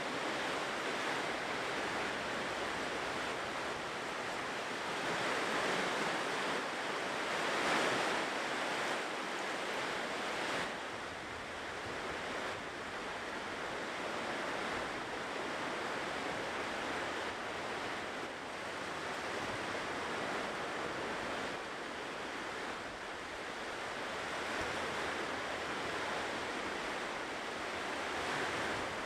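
Ocean waves breaking and washing on a shore, a steady surf with slow swells, one wave louder about eight seconds in.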